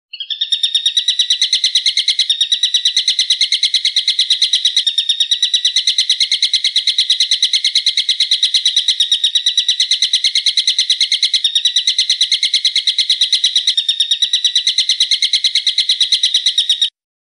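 A songbird's shrill, fast trill of rapid, evenly repeated notes, held without a pause for about seventeen seconds, then cut off abruptly.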